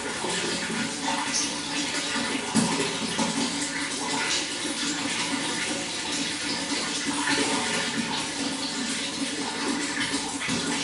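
Running water flowing and splashing steadily, with a constant rushing sound full of small splashes.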